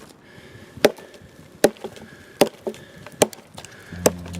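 Axe chopping a hard log: five sharp, evenly spaced strikes, about one every 0.8 seconds.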